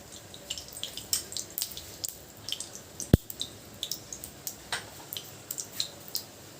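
Oil heating in a kadai on the stove, giving off scattered, irregular small pops and crackles, with one sharp, louder click about three seconds in.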